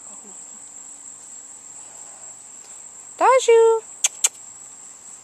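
Insects trilling steadily at a high pitch, with two sharp clicks about four seconds in.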